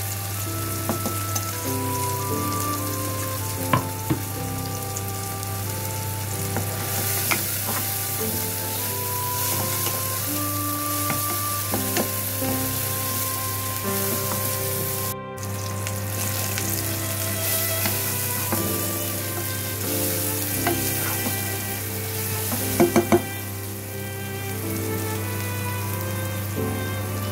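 Chopped onion and garlic sizzling in hot oil in a saucepan, stirred with a wooden spoon. A few sharp knocks against the pot, two early on and a quick cluster of three near the end, cut through the steady frying hiss.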